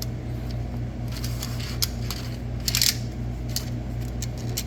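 Scattered small clicks and scrapes of hands working the opened EFEST V8 battery charger, trying to lift its circuit board out of the plastic case, over a steady low hum.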